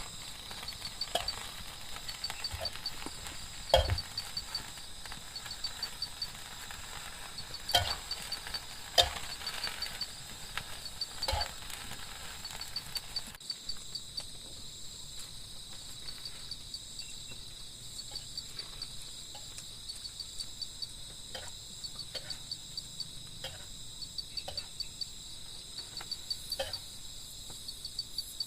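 Steady high-pitched chorus of forest insects, with scattered sharp knocks and clicks over it, several louder ones in the first half. About halfway in the knocks thin out to lighter ticks.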